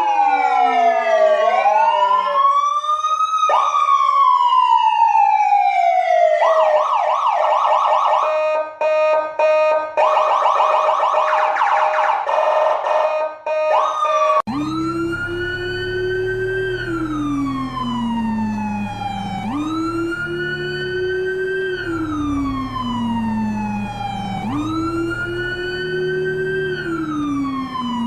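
Police escort siren cycling through its tones: falling sweeps, then a rapid warbling pattern over a steady tone. About halfway through it changes abruptly to a slower wail that rises and falls roughly every four seconds, with a low hum beneath.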